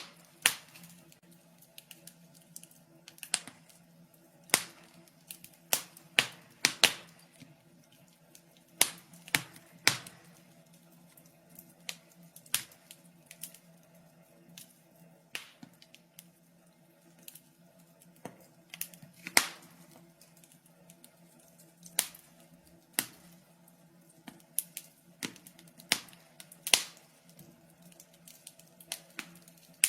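Wood fire in a fireplace crackling: sharp irregular pops and snaps, several loud ones spaced a second or two apart, over a faint low hum.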